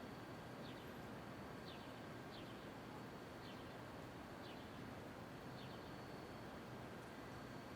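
A small bird chirping short, falling notes about once a second over a faint, steady low hum of street ambience.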